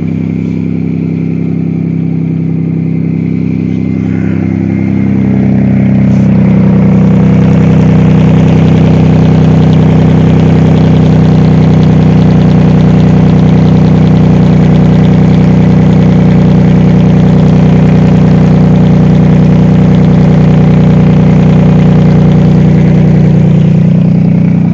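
Mazda Millenia's supercharged V6 engine running. About four seconds in its speed rises and it gets louder, then holds at a steady higher pitch until the revs drop slightly near the end.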